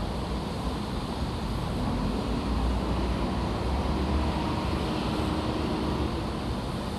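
Construction site ambience: a steady low rumble of machinery with a faint hum, a little louder in the middle.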